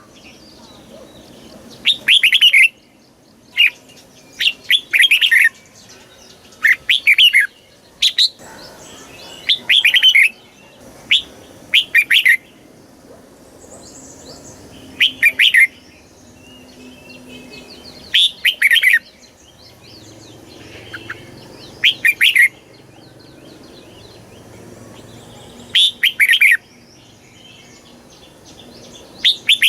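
Red-whiskered bulbul singing: loud, short, warbling phrases of about half a second each, repeated at irregular gaps of one to four seconds. It is the bird's full song, of the kind played to caged bulbuls to stir them to sing.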